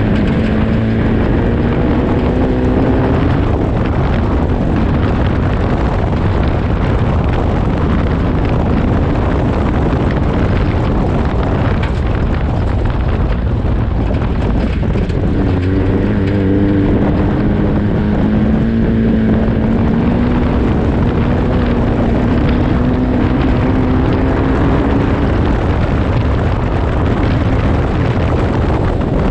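Off-road race car engine running hard at speed, its pitch rising and falling, under heavy wind and road noise on the microphone.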